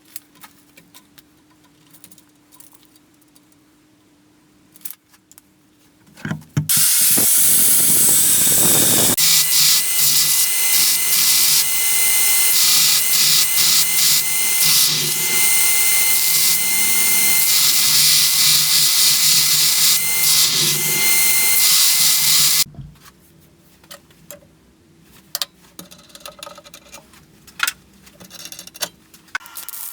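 An electric power tool starts about seven seconds in, runs steadily with a whine for about sixteen seconds, and cuts off sharply. Light clicks and knocks of handling come before and after it.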